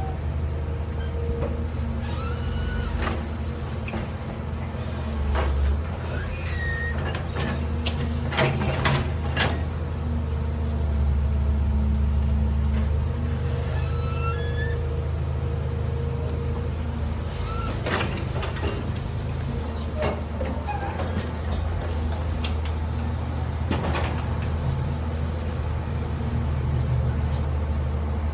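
Large excavator's diesel engine running steadily, with short squeaks and sharp metallic clanks from the working machine, clustered about a third of the way in and again near two-thirds.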